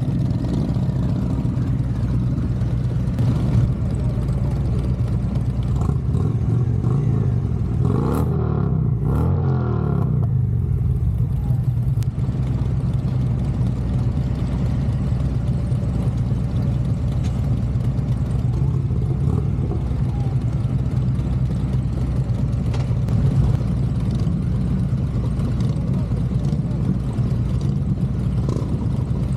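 Motorcycle engine running steadily while riding, with a brief change in engine pitch about eight to ten seconds in.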